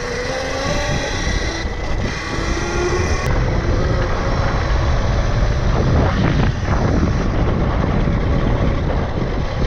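Tuttio Soleil 1 electric dirt bike being ridden: steady low wind and tyre noise with a faint electric motor whine, which rises in pitch during the first second.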